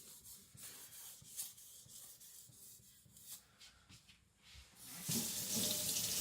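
Victorinox Chinese cleaver's edge drawn across a whetstone in light, repeated strokes under the knife's own weight, blending the edge into the face. About five seconds in, water starts running with a loud, steady hiss.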